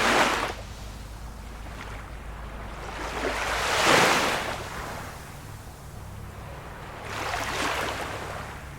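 Small waves of a calm sea washing in, three swells of surf, the one about four seconds in the loudest.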